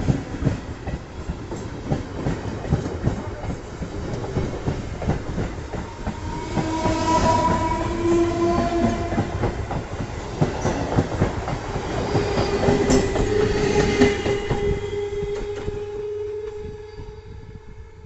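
Conventional electric local train (EMU) carriages passing slowly close by, the wheels clattering in a steady run of clicks over the rail joints, with drawn-out ringing tones over the clatter. The sound fades near the end as the last carriages go by.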